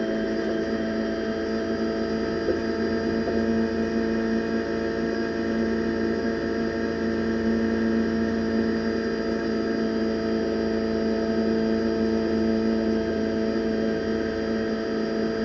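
Renault Clio Cup race car's four-cylinder engine at full throttle in sixth gear, heard inside the cockpit, holding a steady high pitch.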